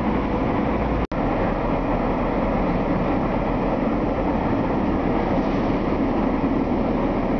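Diesel-hauled SA/SD push-pull passenger train moving along the platform of an enclosed underground station, a steady rumble throughout. The sound breaks off for an instant about a second in.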